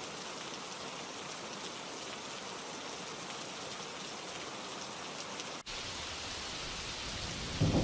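Steady rainfall, an even hiss of rain falling on surfaces. For an instant about two-thirds through, the sound cuts out and then resumes.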